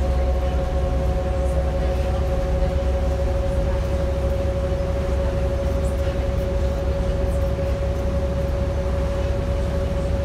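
Volvo B7RLE single-deck bus running steadily on the road, heard from inside: a constant low engine and road rumble with a steady whine over it that rises very slightly in pitch.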